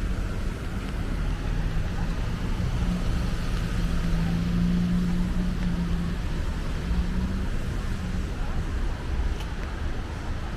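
Road traffic: a steady rumble of vehicles with one engine's hum held for several seconds, dying away about eight seconds in.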